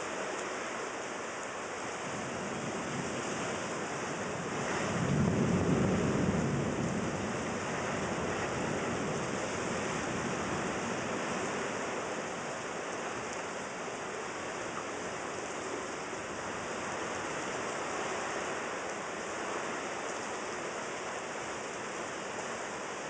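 Steady rain falling in a thunderstorm, with a low rumble of thunder that swells about five seconds in and dies away over a couple of seconds.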